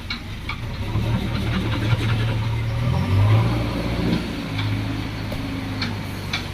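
Heavy diesel engine of earthmoving equipment running under load, its revs rising to a peak about three seconds in and then easing back to a steadier note. A few sharp metallic knocks are heard, two of them near the end.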